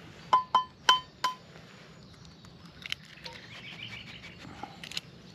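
An egg tapped four times in quick succession against the rim of a cup to crack it, each tap a sharp ringing clink. Faint birdsong follows.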